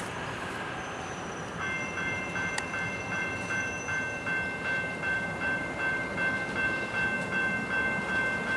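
Freight train cars rolling by with a steady rumble. About two seconds in, a railroad bell starts ringing, about two strikes a second.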